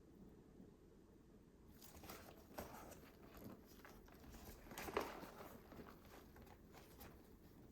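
Faint handling noises, light taps and rustles, with one sharper click about five seconds in.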